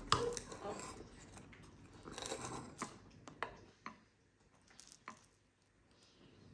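Light handling noises: rustling with a few sharp clicks for about three seconds, then single faint clicks as it trails off.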